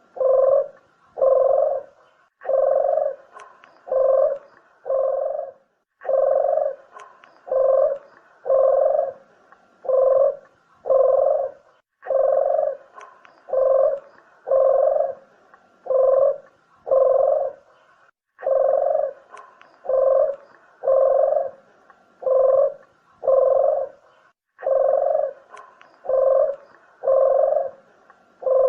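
Puter dove (Barbary dove) cooing: a steady series of short, low coos about one every 0.6 seconds, in phrases that restart every six seconds or so with a click, as a looped lure call for luring or shooting doves.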